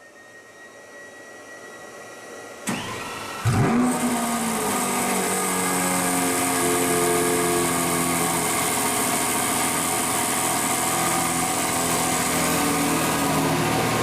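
Lamborghini supercar engine starting. After a faint hum and a click, it fires with a sudden loud burst about three and a half seconds in, then settles into a steady idle.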